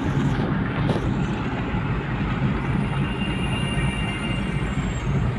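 A car driving along a road, a steady low rumble of engine and tyres.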